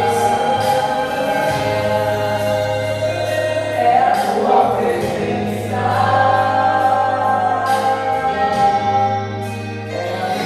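Gospel hymn sung by a choir of voices with band accompaniment, long held notes over a steady bass.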